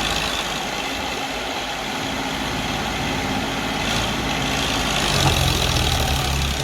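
Tractor diesel engines running, the low engine note growing heavier and louder about five seconds in as one works harder.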